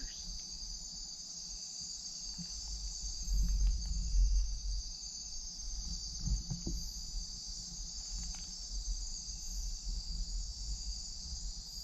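Night chorus of rainforest crickets and other insects, a steady high-pitched buzzing, with a few low thumps around the middle.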